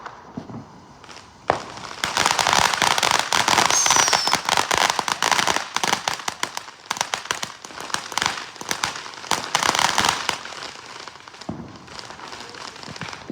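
Consumer fireworks going off: a sharp bang about a second and a half in, then a dense run of rapid crackling pops for about eight seconds with a short falling whistle in it, thinning to scattered pops near the end.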